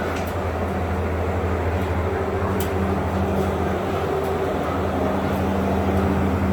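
A steady, loud, low mechanical hum with a constant pitch, and a few faint clicks over it.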